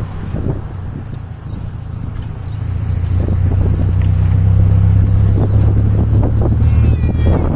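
A motor vehicle engine running with a steady low hum that grows louder a few seconds in.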